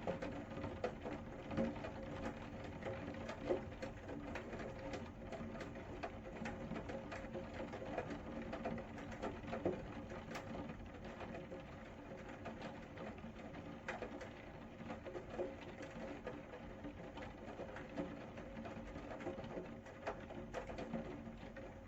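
Rain pattering, a dense, irregular tapping of drops striking a hard surface close by, with a few louder single drops, over a low steady hum.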